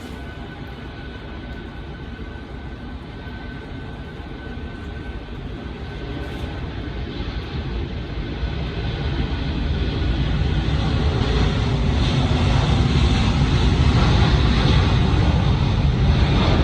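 Jet airliner's engines at takeoff power, a steady roar that grows steadily louder as the plane rolls and climbs out, with a faint high whine in the first half.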